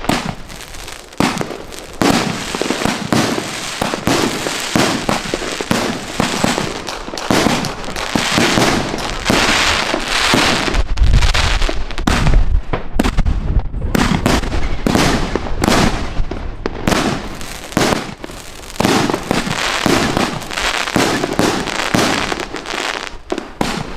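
Fireworks going off in a dense, continuous barrage of overlapping bangs and crackling, heaviest about halfway through with a deep rumble.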